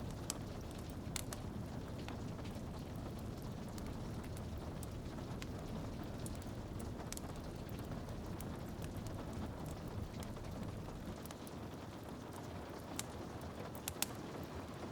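Wood fire crackling in a fireplace with a few sharp pops, over a steady rush of rain on a window.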